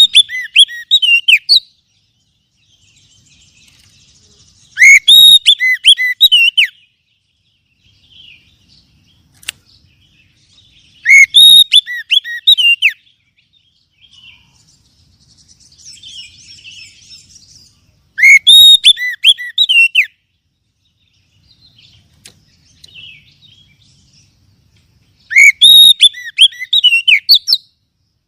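Oriental magpie-robin (kacer) singing in loud bursts of rapid, sweeping whistled notes, each about two seconds long, five times at intervals of about six to seven seconds. Faint chirps come in the gaps.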